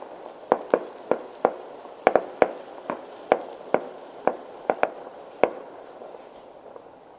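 Fireworks going off: a string of sharp, irregular bangs, about fourteen in the first five and a half seconds, over a steady hiss.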